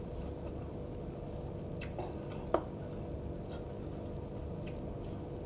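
Wet chewing and mouth clicks of a person eating instant cup noodles: a few faint clicks and one sharper wet smack about two and a half seconds in, over a steady low hum.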